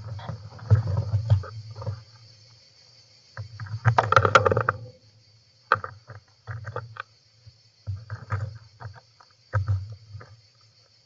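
European rollers moving inside a wooden nest box close to the microphone, scratching and scrabbling against the box in irregular bursts of rustling and knocks, the longest about four seconds in.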